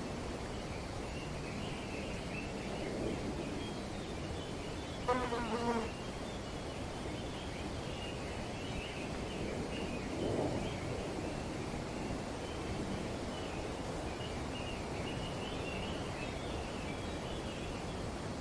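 Outdoor ambience of wind moving through trees as a steady hiss, with faint high chirping throughout. About five seconds in, a brief low warbling animal call, the loudest sound, and a short swell of wind noise around ten seconds.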